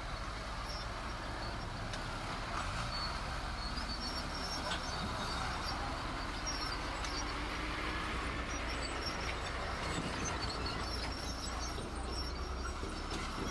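Heavy earthmoving machinery at work: a steady engine drone with a haze of mechanical noise and scattered short, high squeaks over it.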